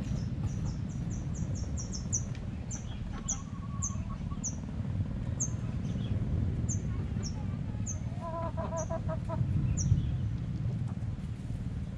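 A small bird gives a run of short, high, falling chirps, quick at first and then about one a second. Chickens cluck briefly twice in the background, over a steady low rumble.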